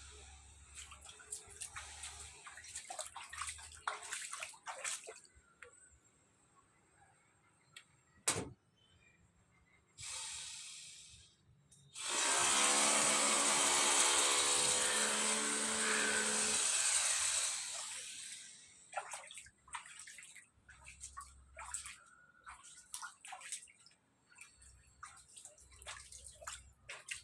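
Water gushing out for about five seconds, starting about halfway in and then fading, with a hollow ringing tone under the rush. Scattered knocks and clicks of plumbing work come before and after it.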